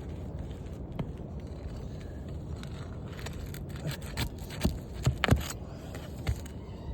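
Scraping and sharp clicks of asphalt roof shingles being worked loose and unsealed, growing busier from about halfway through, over a steady low rumble.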